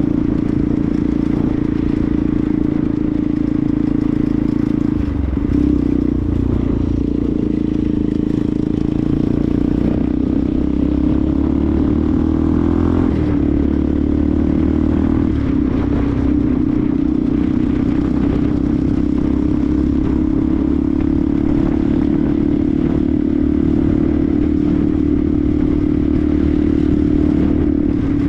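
Benelli TNT 125's single-cylinder four-stroke engine running steadily under way. Its note dips briefly about five seconds in, then rises and falls a little between about ten and sixteen seconds in before settling.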